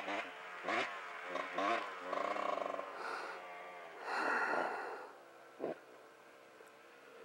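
Distant dirt bike engine running, faint and steady, under several short, louder, voice-like bursts close to the microphone in the first five seconds, the largest about four seconds in.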